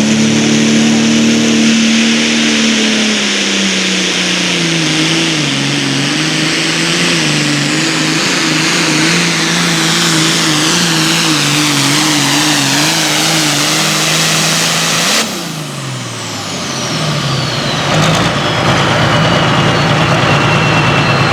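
Super Farm pulling tractor's turbocharged diesel engine running at full throttle under load, its pitch slowly sagging as it bogs down and then wavering. About fifteen seconds in, the throttle comes off abruptly and the engine drops toward idle while a high turbo whistle winds down.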